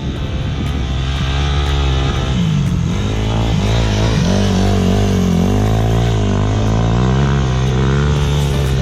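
Dirt bike engine running under load, its pitch dipping and climbing again several times as the throttle is worked.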